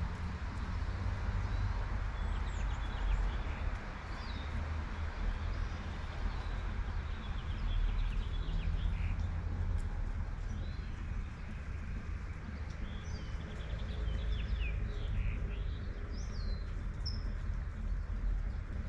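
Birds chirping in short, quick calls over light steady rain and a low, constant rumble of distant traffic; the chirps grow busier in the second half.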